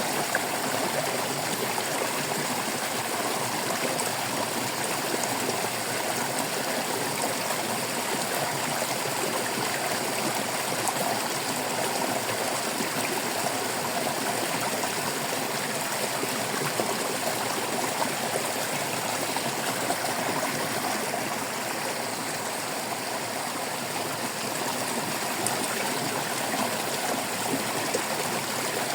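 Water flowing and babbling steadily over stones in a shallow stream.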